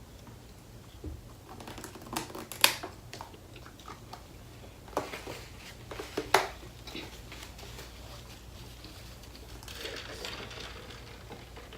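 Quiet mouth and hand sounds of eating chicken wings: scattered wet smacks and sharp clicks, the loudest about two and a half and six seconds in, over a low steady hum.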